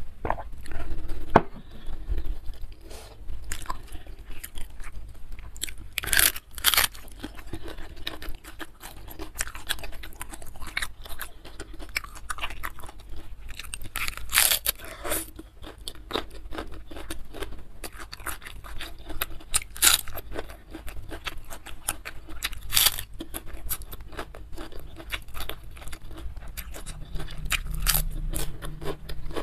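Close-miked eating of goat trotter curry by hand: steady chewing and biting. Several loud crunchy bites are spread through it.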